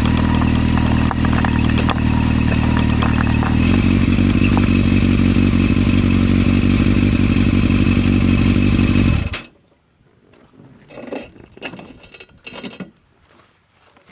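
Yamaha FZS600's inline-four engine running at a steady speed, its pitch shifting slightly about three and a half seconds in, then cutting off suddenly about nine seconds in. Faint scattered clatters and knocks follow.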